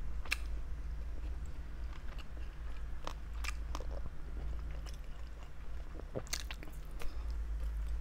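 Close-miked chewing and mouth clicks of a person eating, irregular and wet, over a steady low hum.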